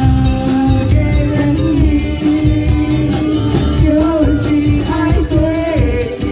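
Live band playing an upbeat rock-style pop song with a lead singer, over a steady drum and bass beat.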